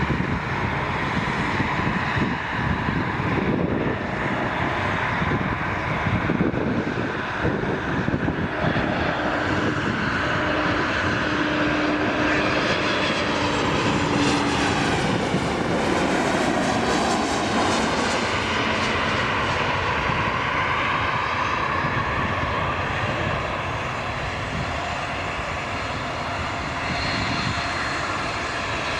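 Airliner engines running loud and close as the aircraft passes the runway end, with a sweeping rise and fall in pitch around the middle as it goes by, easing off slightly near the end.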